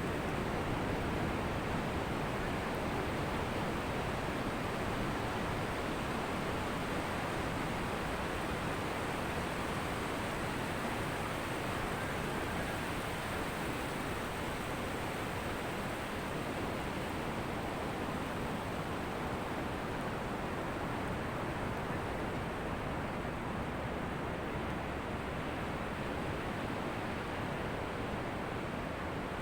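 Ocean surf washing on a beach as a steady, continuous rush without distinct separate wave crashes.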